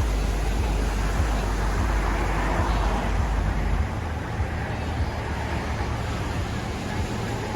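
Wind buffeting the microphone with a low rumble over a steady wash of ocean surf. The surf swells around two to three seconds in, and the wind rumble drops out about four seconds in.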